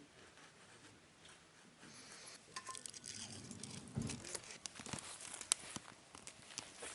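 Faint rustling and crinkling with scattered light clicks and taps, growing busier about two seconds in.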